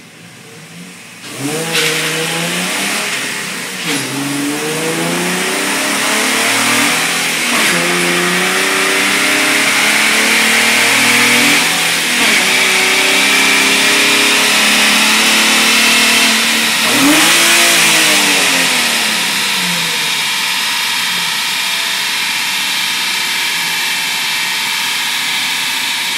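Infiniti G35's 3.5-litre V6 at full throttle on a chassis dyno, pulled up through the gears: the revs climb and drop back at each upshift, several times. About seventeen seconds in they peak and fall away, leaving a steady whirring hiss.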